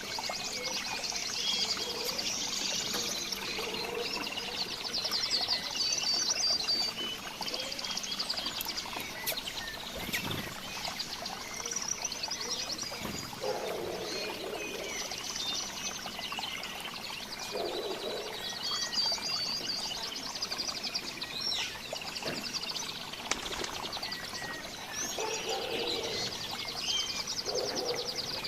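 A mixed group of songbirds chirping and trilling, many short calls overlapping throughout, with a lower, short call coming in every few seconds.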